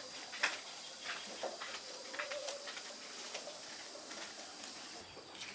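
Chickens making soft low calls, mixed with scattered light clicks and knocks.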